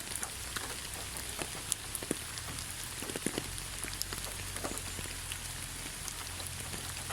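Steady rain falling in a forest: an even hiss with many separate drops ticking sharply and irregularly, over a low steady rumble.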